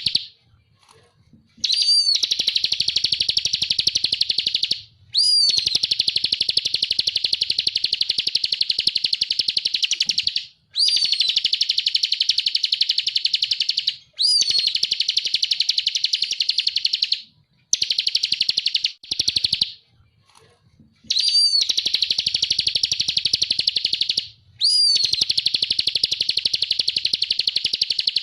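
Bar-winged prinia (ciblek) singing in repeated long, fast buzzing trills, the 'ngebren' song, each trill lasting a few seconds and opening with a short rising note, with brief pauses between them.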